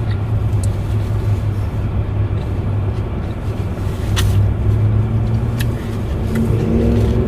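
Steady low rumble of a car running, heard from inside the cabin, with a couple of faint clicks partway through.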